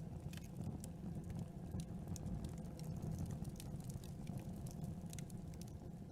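Campfire burning: wood crackling, with frequent sharp little pops at irregular intervals over a low steady rumble of the flames.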